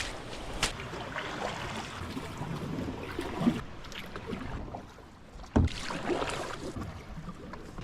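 Paddling on water: irregular splashes and knocks of a paddle, with one sharp knock about five and a half seconds in.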